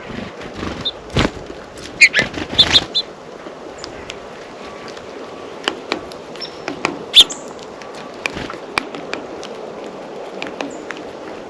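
Small songbirds at a feeder: irregular sharp taps and knocks close to the microphone, a flutter of wings, and a few short high chirps, the loudest taps about two and seven seconds in, over a steady hiss.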